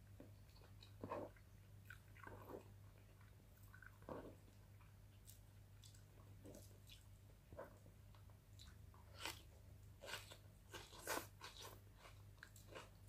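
Close-miked eating sounds: soft chewing with scattered mouth clicks and lip smacks, sparse at first and busier in the second half. A faint steady low hum runs underneath.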